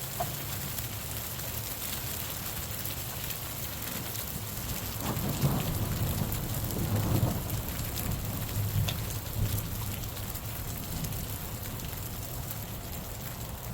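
Steady rain falling, with a low roll of thunder that swells about five seconds in, peaks a couple of seconds later and dies away by about ten seconds.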